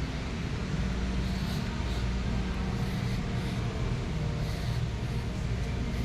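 Steady low hum and background noise of a large store's interior ambience, with no distinct events.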